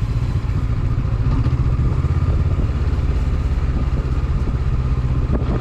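Honda CB500X's parallel-twin engine running steadily as the motorcycle rides along.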